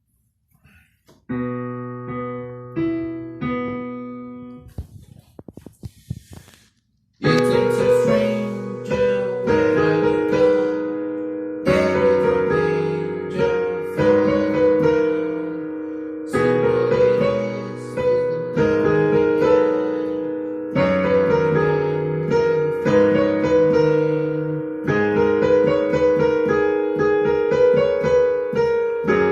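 Keyboard playing an instrumental tune: a few held chords about a second in, a few seconds of scattered clicks, then a steady run of chords and melody from about seven seconds in.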